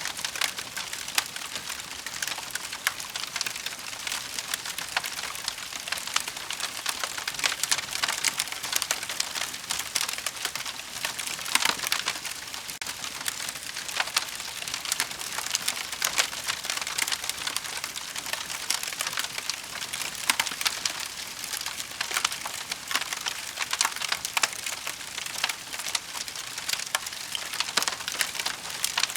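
Burning wood crackling: a dense, unbroken run of small sharp pops and snaps over a steady hiss.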